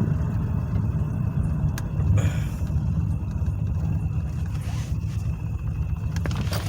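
Steady low drone of a 2007 Pontiac Grand Prix GT under way, engine and road noise heard from inside the cabin, with a few faint ticks. The engine is running much better now that it starts again.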